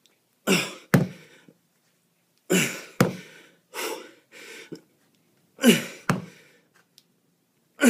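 A man's hard, breathy exertion exhales during kettlebell renegade rows, each followed about half a second later by a sharp knock. The pattern repeats three times about two and a half seconds apart, with a fainter breath in between.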